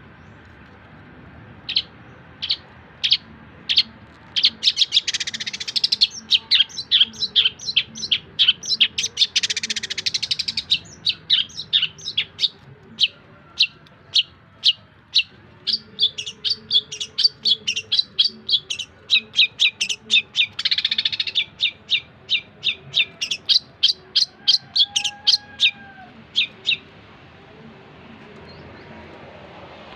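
Long-tailed shrike (cendet) singing: a long series of sharp, rapid chirps that goes quiet near the end.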